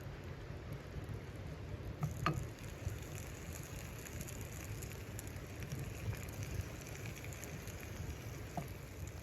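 Steady storm wind with a light patter over it, broken by a few sharp ticks, one about two seconds in and a fainter one near the end.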